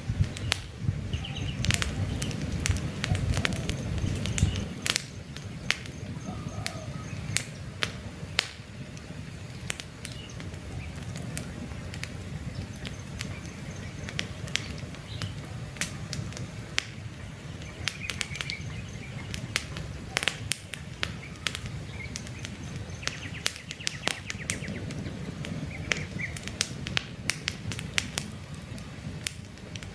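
Wood campfire crackling, with frequent sharp pops over a low rumble of burning that eases off about five seconds in. A bird chirps briefly now and then in the background.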